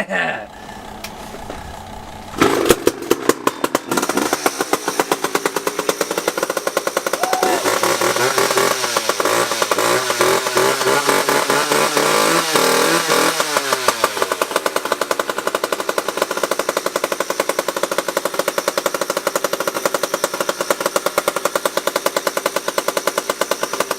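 McCulloch Pro Mac 10-10 chainsaw's two-stroke engine running after a choked cold start. About two seconds in it picks up sharply and gets much louder, revs up and down several times, then holds a steady high speed.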